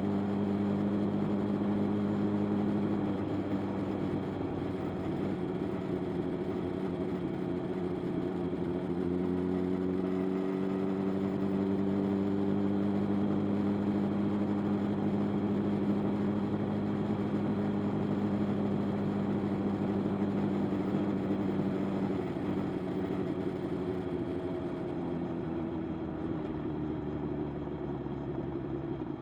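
Motorcycle engine running at a steady cruise. Its pitch drifts slightly, then eases off and drops a little near the end.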